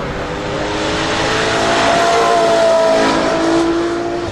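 Ferrari 812 Competizione A's V12 engine running with a steady, multi-toned note, growing louder to a peak about two to three seconds in, then fading a little, as the car moves past.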